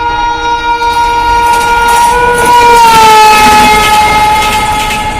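A passing train's locomotive horn, sounded in one long blast over the rumble of the train running. The pitch drops about two and a half seconds in as the locomotive passes, the loudest point, then the horn fades.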